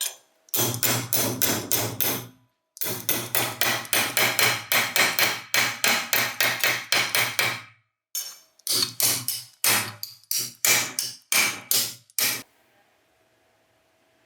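A hammer striking metal in quick repeated blows, about four a second, in three runs with short pauses between; the last run is slower.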